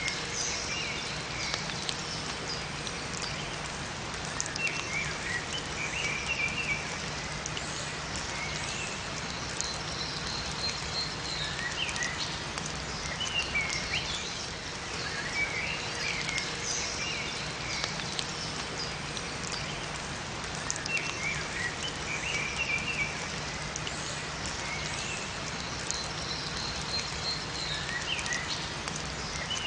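Steady rain falling in a forest, with small songbirds chirping and twittering in short phrases every few seconds.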